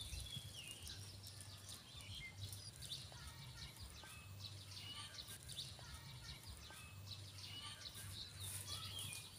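Birds chirping faintly, many short calls throughout, over a low rumble that comes and goes.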